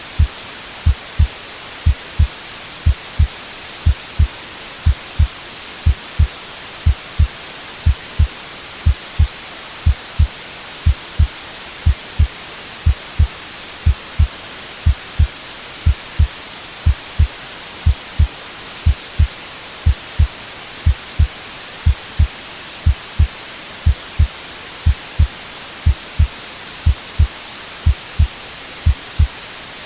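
Heartbeat sound, a steady double thump (lub-dub) about once a second, over a constant white-noise hiss.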